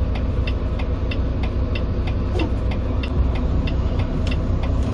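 Semi truck's diesel engine idling, heard inside the cab, with the turn signal ticking steadily about three times a second while the truck waits to turn left.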